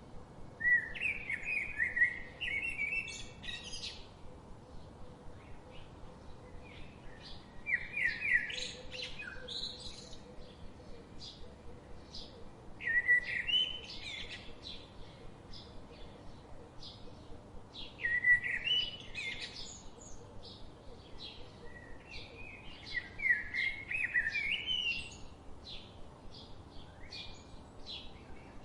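Songbird singing: five loud, quick warbled phrases about five seconds apart, with faint short chirps in between over a soft steady background hiss.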